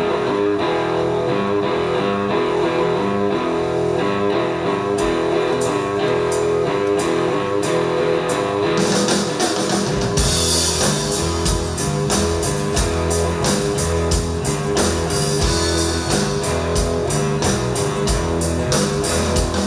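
Live band playing an instrumental passage, led by guitar. Cymbal ticks come in about a quarter of the way in, and a heavy drum and bass beat joins about halfway through.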